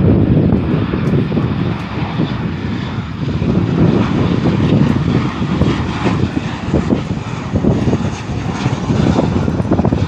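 Airplane engines running loud and steady, with wind buffeting the microphone.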